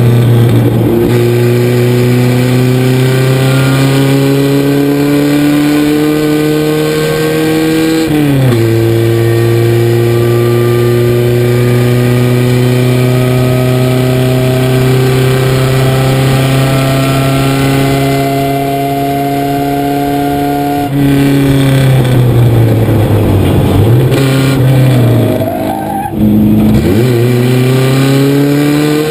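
1976 Chevrolet Luv race truck's engine, heard from inside the cab, pulling hard with its pitch climbing. It drops suddenly at an upshift about a third of the way in, then climbs again. Past two-thirds it falls off and the revs rise and fall through braking and downshifts for a corner, before it picks up again near the end.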